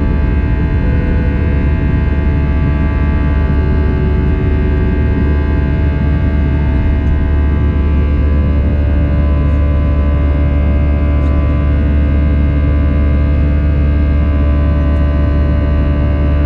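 Airbus A319 jet engines and airflow heard inside the cabin as a steady, loud drone with several constant tones.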